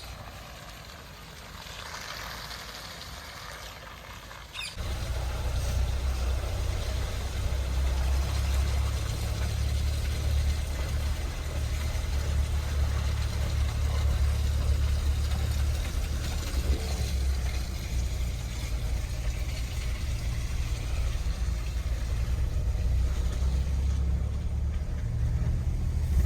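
Mahindra Thar's engine, a steady low rumble that comes in suddenly about five seconds in after a quieter stretch of outdoor ambience.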